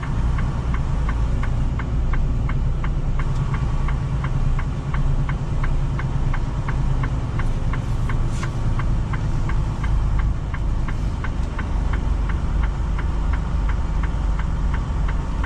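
Semi truck's diesel engine running slowly, heard from inside the cab while the truck is moved into a parking spot. A steady light ticking, about three ticks a second, runs over the engine.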